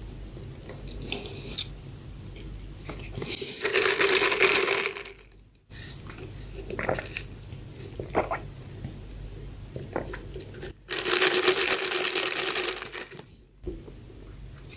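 Close-miked eating sounds of soft bread: quiet chewing and small mouth clicks, broken twice by loud crinkling, tearing spells of about two seconds each, a few seconds in and again past the ten-second mark.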